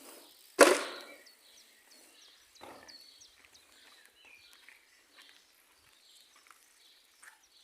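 One loud thud about half a second in that dies away quickly, then a softer knock near three seconds. Small birds chirp faintly in the background.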